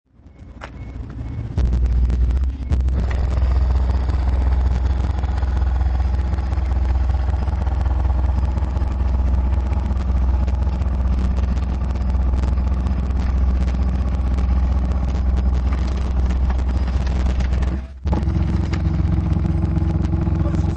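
RE Audio SX15 15-inch car subwoofer playing a loud, steady deep bass note at high excursion, with rattling over it. The bass builds up over the first second and a half, cuts out briefly near the end and comes back with a changed tone.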